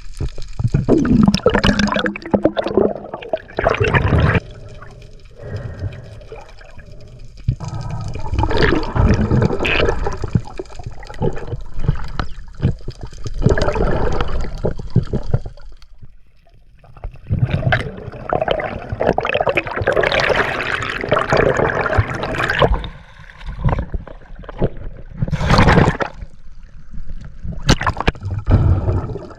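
Seawater splashing and sloshing in irregular surges a few seconds long, easing off briefly between them.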